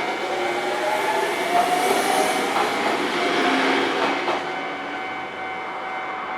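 A Nankai Koya Line train running through the station over the rails, with a shifting high whine. Its noise is loudest for about four seconds, then fades. The level crossing's warning bell rings steadily throughout.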